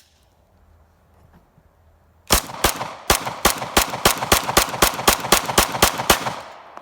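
Glock 17 9mm pistol fired rapidly, a string of shots about four to five a second for about four seconds, starting a couple of seconds in. The string stops when the magazine runs dry and the slide locks open on empty.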